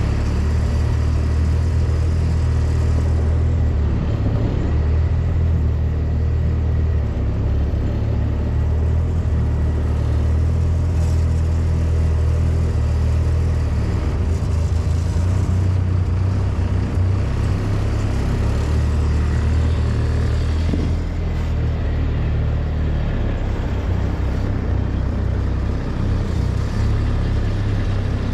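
Vehicle engine running steadily with a low drone, as while driving.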